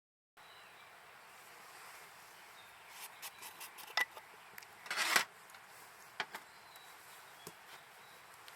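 Faint, steady outdoor background hiss, with scattered clicks and knocks and one brief rustling burst about five seconds in.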